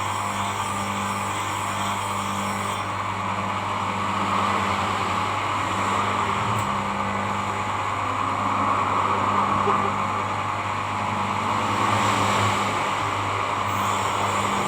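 A blade being sharpened lightly against an abrasive: a steady rushing, grinding noise over a constant low machine hum, swelling and easing every few seconds.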